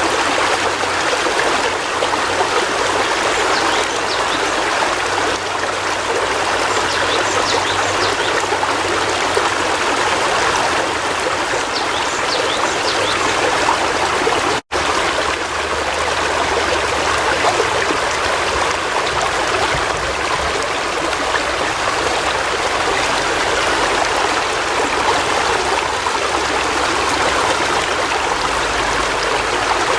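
River water flowing, a steady rushing and trickling. It cuts out for a split second about halfway through.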